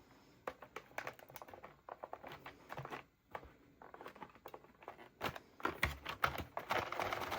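Plastic and cardboard packaging being handled while a model train car is worked out of its box: scattered light clicks and rustles, busier near the end with a brief burst of crinkling.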